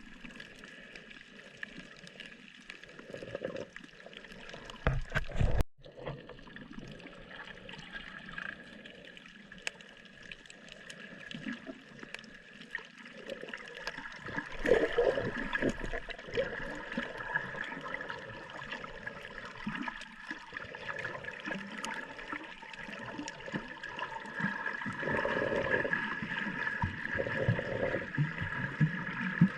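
Water sloshing and gurgling in irregular surges, louder about halfway through and again near the end, with a sudden brief cut-out of all sound about six seconds in.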